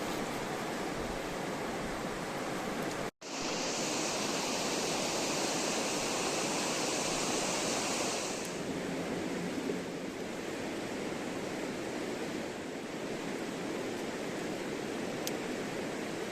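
Steady rush of flowing river water. After a brief cut about three seconds in, a brighter, louder hiss joins it for about five seconds, then fades.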